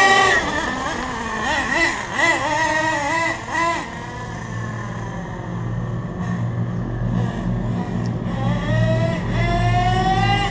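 HPI Savage 1/8 monster truck's 4.6 cc RB nitro engine revving in quick up-and-down surges for the first few seconds, then running lower and steadier. Near the end it rises steadily in pitch as it speeds up again.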